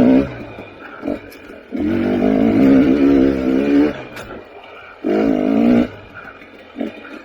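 KTM 300 XC TPI two-stroke dirt bike engine revving in bursts as the throttle is opened and closed: a brief one at the start, a longer one of about two seconds, and a shorter one past the middle, falling back toward idle between them.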